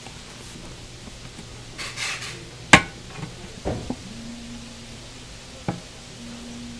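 Kitchen clatter: a brief rustle, then one sharp loud clack about two and a half seconds in and a few lighter knocks after it, with a low steady hum sounding twice in the second half.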